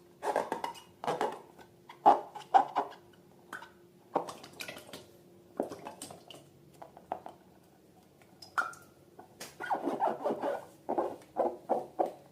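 Slime being squished and worked by hand: irregular wet squelches and crackly clicks, coming in clusters with short pauses between them.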